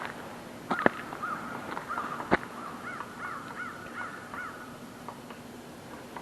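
American crows cawing, with a quick rhythmic run of about six caws in the middle and scattered caws before it. Two sharp knocks stand out about one and two seconds in.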